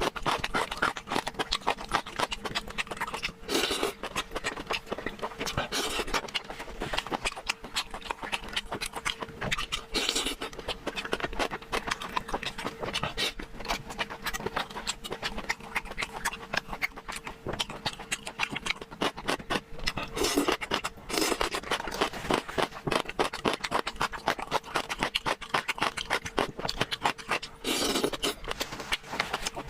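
Close-miked eating sounds: irregular wet chewing, smacking and mouth clicks, with a few louder slurps or crunches, over a faint steady hum.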